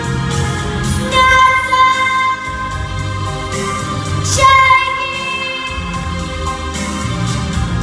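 A song: a solo voice sings, holding long notes, over a full instrumental backing with a regular beat.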